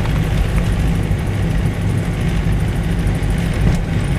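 Mazda Navajo SUV driving through snow: its engine and tyres make a steady low drone, heard from inside the cabin.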